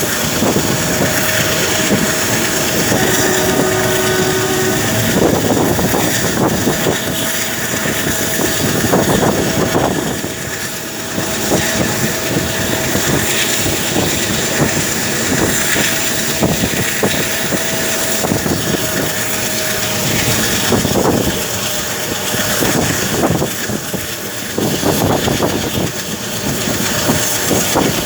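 Moving train heard from on board: a steady rumble of wheels on the rails with repeated clatter over the rail joints. A thin steady whine runs along with it and stops about two-thirds of the way through.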